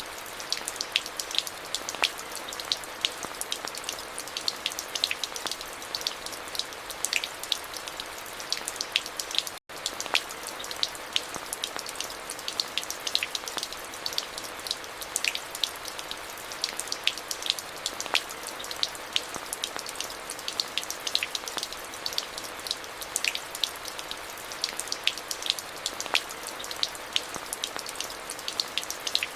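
Steady rain falling, with many distinct drop hits ticking over a constant hiss. The sound cuts out for an instant about ten seconds in.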